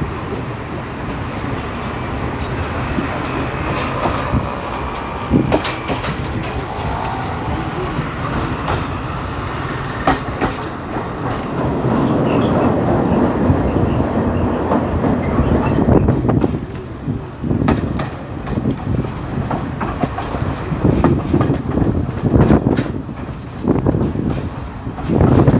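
Passenger train running on the rails: a steady rumble with the rattle and clatter of wheels over rail joints, louder about halfway through.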